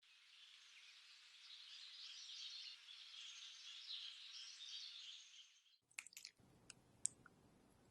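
Faint chirping birdsong over a soft hiss for about six seconds. It cuts off suddenly, followed by a few light clicks and taps.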